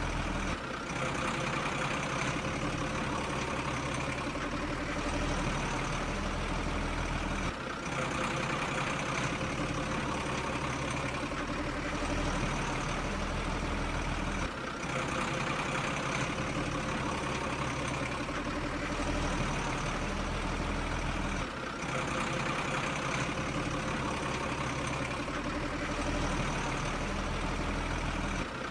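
Steady truck diesel engine idling, played as a loop that restarts with a brief dip about every seven seconds, as a toy's sound module or a dubbed sound effect does.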